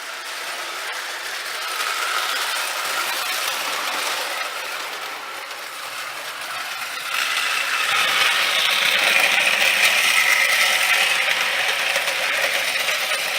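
Marx No. 999 toy train engine running on O-gauge tinplate track, its motor gears and wheels making a continuous mechanical rattle that gets louder about seven seconds in.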